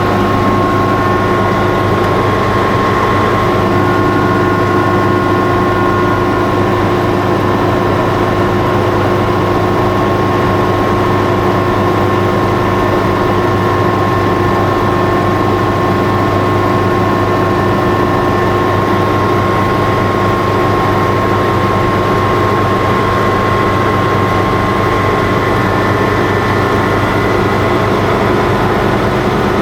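Helicopter engine and rotor noise, loud and steady, with a constant whine running through it.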